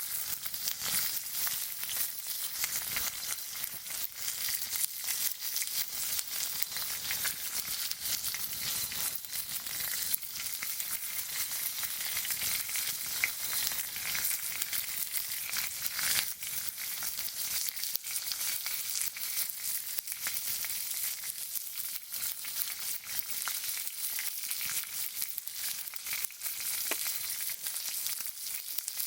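Meat sizzling as it cooks over a campfire: a steady hiss full of small crackles and pops.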